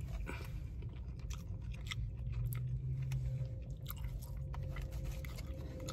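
A person chewing crispy fried chicken: a run of small, irregular crunches and clicks from the fried coating being bitten and chewed.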